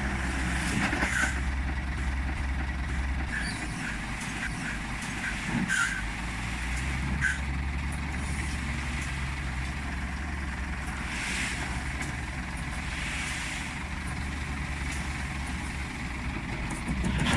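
Scania truck's diesel engine running steadily at low revs, with a few brief hisses of air now and then.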